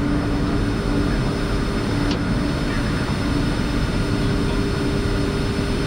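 Steady flight-deck noise of a Boeing 747-400 taxiing after landing: a continuous rumble from the engines at idle, with a steady hum, and one faint tick about two seconds in.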